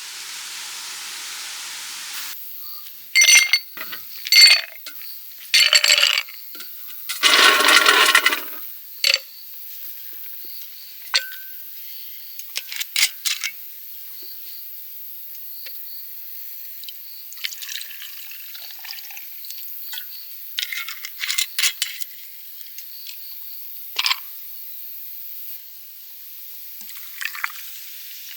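Camp cookware clinking and knocking in short, separate strokes, with a gush of poured or splashed liquid lasting about a second, around seven seconds in. A faint, steady, high hiss runs underneath.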